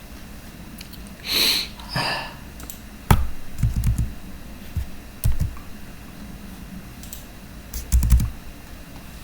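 Scattered sharp clicks and dull knocks, with two short hisses about a second and two seconds in; handling noise with no speech.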